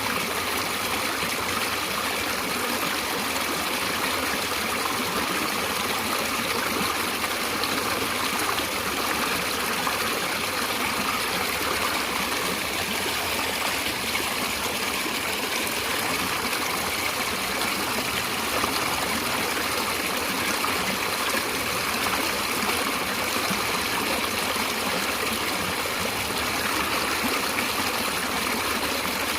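Stream water flowing and trickling in a steady, even rush.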